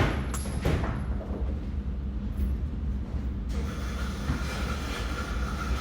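Steady low mechanical rumble, with a sharp knock right at the start and two fainter knocks within the first second. A steady hum and hiss join about three and a half seconds in.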